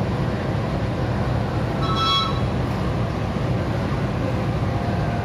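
Passenger train pulling slowly out of a station: a steady low rumble of the coaches rolling, with a brief high-pitched tone about two seconds in.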